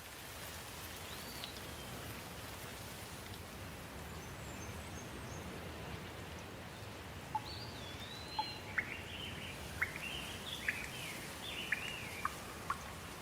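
Steady rain falling, with a bird calling over it: one whistled call about a second in, then a string of short chirps and sweeping whistles through the second half.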